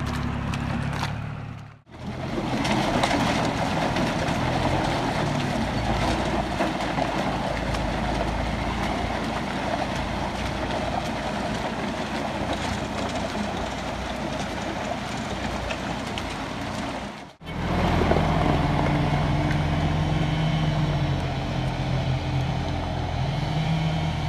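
Deutz-Fahr 4055 tractor engine running steadily under load, breaking off abruptly twice, about two seconds in and about seventeen seconds in.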